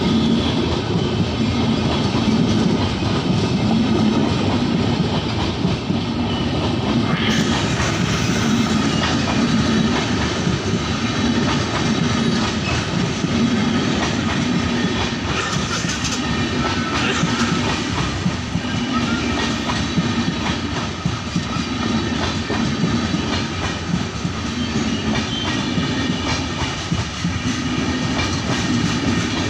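An express passenger train running on the track, its wheels clattering rhythmically over the rail joints in a steady, continuous rumble.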